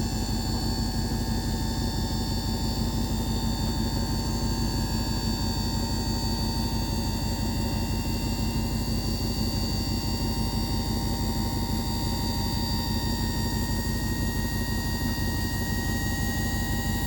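2005 GMC dump truck's engine idling steadily, with a faint high whine running along with it.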